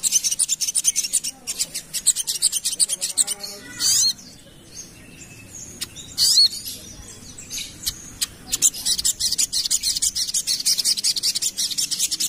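Sogok ontong (little spiderhunter) singing a rapid, dense trill of high chipping notes. The trill pauses briefly in the middle, broken by a few sweeping whistled notes, then resumes at full pace for the last few seconds.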